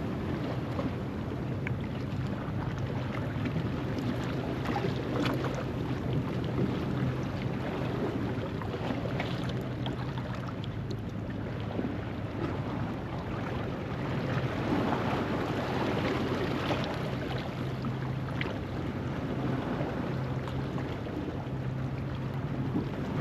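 Low-tide ocean waves washing steadily over a rocky shoreline, swelling a little about two-thirds of the way in, with wind rumbling on the microphone.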